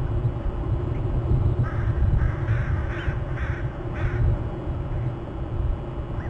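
A bird giving a quick series of about five harsh, caw-like calls from about two to four seconds in, over a steady low rumble.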